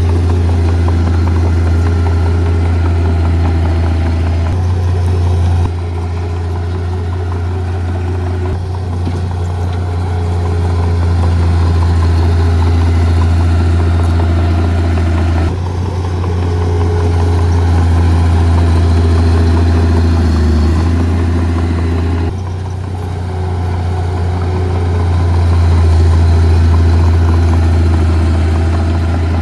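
Heavy diesel engine of earth-moving equipment (bulldozer or dump truck) running steadily with a deep, even drone. The sound changes abruptly a few times.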